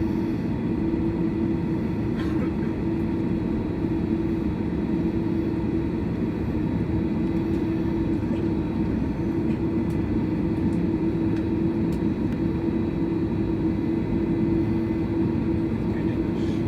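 Steady drone of an Airbus A330 cabin in flight: engine and airflow noise with a constant low hum, unchanging throughout.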